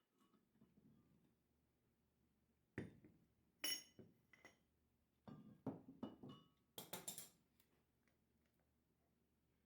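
A few faint clinks and knocks of hard objects being handled, in two groups, the second more than halfway through; one clink about three and a half seconds in rings briefly.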